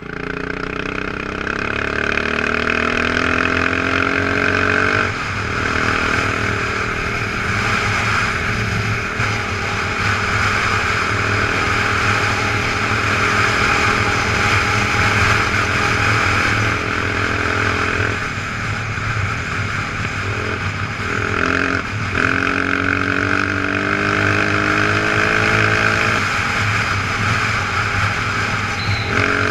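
Motorcycle engine under way. Its pitch climbs steadily as it pulls through a gear and drops at each shift, about four times.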